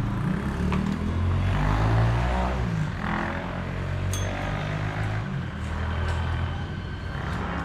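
A motor vehicle engine running nearby, its low hum shifting in pitch as it goes by, with a sharp click about four seconds in.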